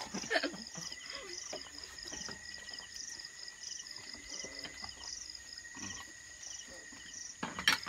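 Night insects chirping in an even rhythm, about two high pulses a second, over a steady high-pitched trill. A short sharp knock near the end.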